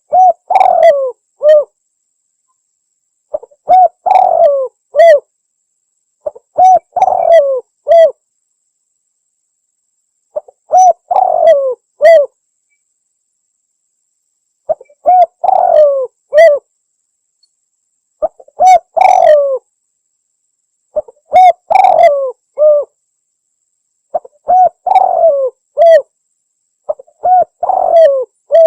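Spotted dove (tekukur) cooing, used as a lure call: the same short phrase of several coos repeats about every three seconds, nine times, with silence between phrases.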